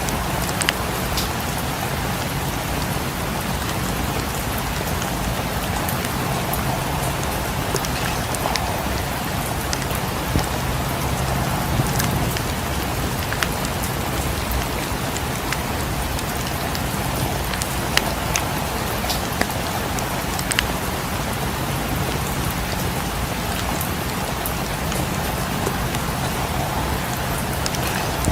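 Steady rain falling, mixed with a fireplace's crackle: scattered sharp pops and ticks over the even hiss of the rain.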